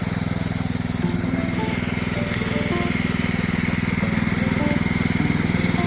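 Small petrol engine of a power trowel running steadily at speed while the concrete slab is trowelled. Background music plays over it.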